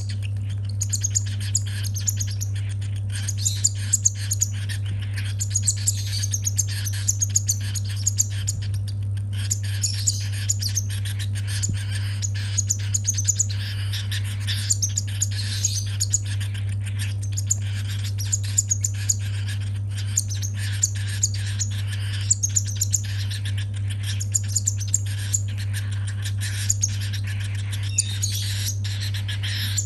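Baby cockatiel chirping rapidly and continuously in short high calls: the food-begging calls of a hungry hand-fed chick. A steady low hum runs underneath.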